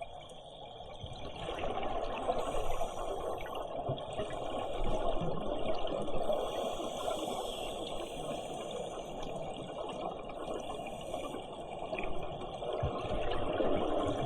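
Underwater rushing and bubbling from a scuba diver's exhaled air, swelling and easing in waves.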